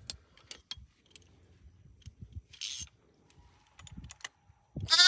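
Scattered metallic clicks of a ratchet wrench tightening the bolts of a ductile iron pipe coupling on a water main. Near the end a newborn lamb bleats loudly.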